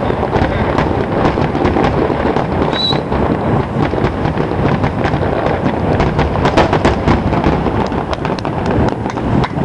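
Fireworks finale: aerial shells bursting in a rapid, continuous barrage of overlapping bangs and crackles over a steady rumble.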